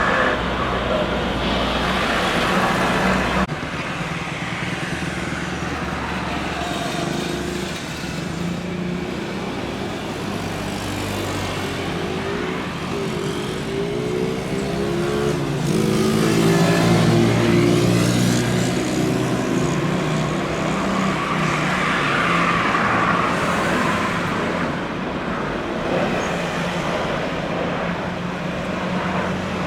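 Jet airliner passing low on its landing approach: steady engine noise that swells to its loudest about halfway through and then eases off, with a sweeping, phasing quality as it goes by.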